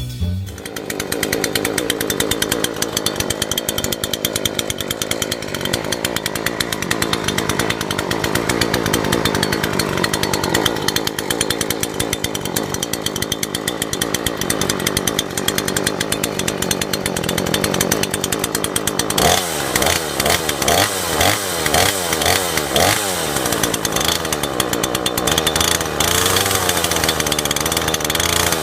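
ZOMAX ZM4402 two-stroke engine chainsaw running at a steady speed. About two-thirds of the way through, the engine speed starts rising and falling over and over.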